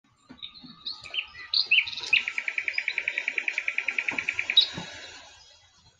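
A bird singing: a few separate chirps, then a fast, even trill of about ten notes a second lasting some two and a half seconds, ending on a higher note.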